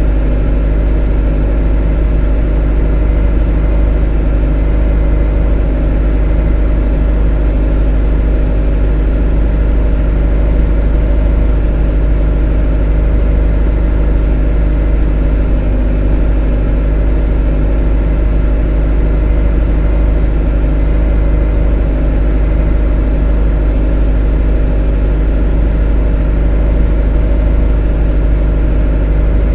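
A motor running steadily at constant speed: an even, unchanging hum with a deep low drone and several steady overtones.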